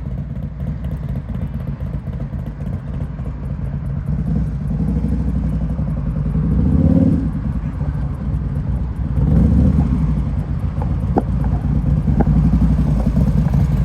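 Harley-Davidson V-twin motorcycle engine running at low speed, with the throttle opened twice, swelling about halfway through and again a few seconds later.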